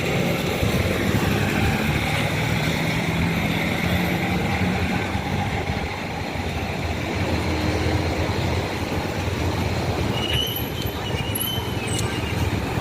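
Heavy vehicle or machinery engine running steadily with a low hum, with brief high squeals about ten seconds in.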